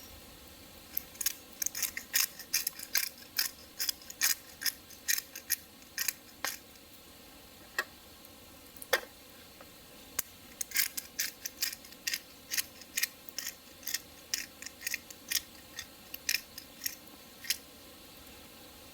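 A run of sharp, short clicks, about two to three a second, pausing for a few seconds midway, over a faint steady hiss.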